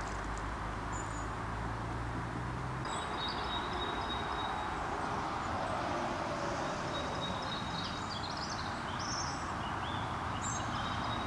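Small birds chirping and twittering over a steady outdoor background noise; a low hum stops about three seconds in.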